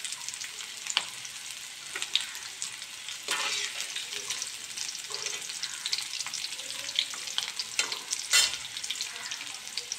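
Lightly fried kantola (spiny gourd) pieces sizzling in hot mustard oil in a kadhai as a steel ladle stirs and scoops them out. Scattered clinks of the ladle against the pan, the loudest about 8 seconds in.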